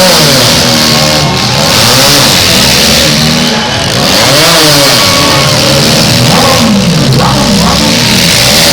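Engines of several demolition derby cars revving up and down at once, their pitches rising and falling over one another.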